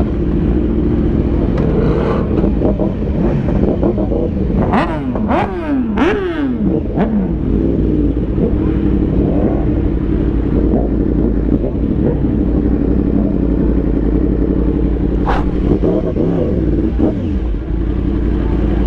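Sport motorcycle engines running steadily, with an engine revving up and down several times about a third of the way in and again near the end, and a few sharp cracks.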